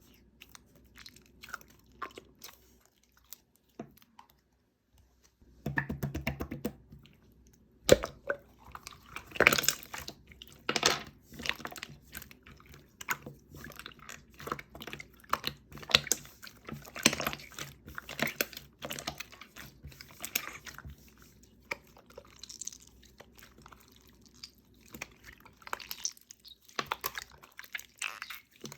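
Jiggly slime being squished and played with, making irregular wet clicks and crackly pops. They are sparse at first and come much more often from about eight seconds in.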